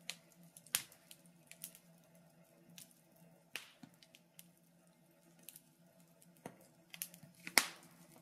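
Wood fire in a fireplace crackling faintly, with irregular sharp pops, the loudest about seven and a half seconds in, over a faint steady low hum.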